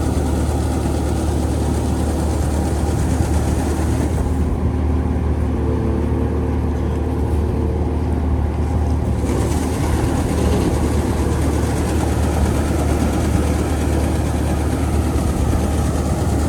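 A heavy engine running steadily at an unchanging speed, with a deep hum.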